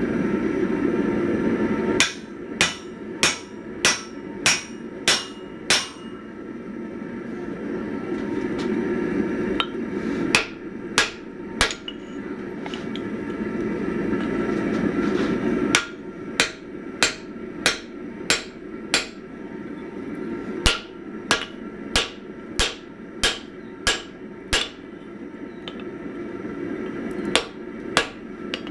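Hand hammer striking a hot 1045 steel axe head on an anvil, in runs of ringing blows about a second and a half to two apart. Between the runs a steady roar builds up and cuts off as the hammering starts again.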